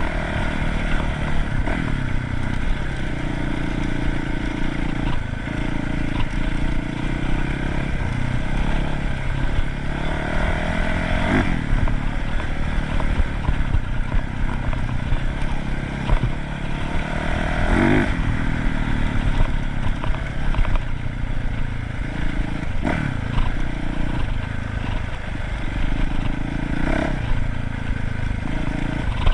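Dirt bike engine running while being ridden, its revs rising and falling, with sharp blips of throttle about eleven and eighteen seconds in, and occasional knocks and rattles.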